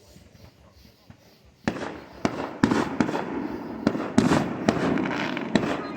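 Fireworks going off: quiet for the first second and a half, then a rapid, irregular run of sharp bangs, each trailing off in a rumbling echo.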